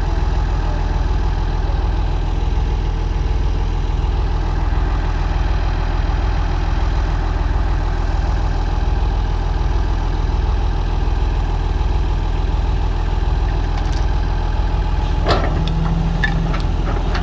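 Heavy diesel machine engine idling steadily with a low, even pulsing rumble. Near the end come a few sharp metallic knocks.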